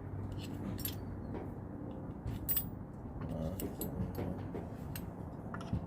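Scattered light clicks and rattles of hand tools and small parts being handled during a motorcycle headlight repair, over a steady low hum.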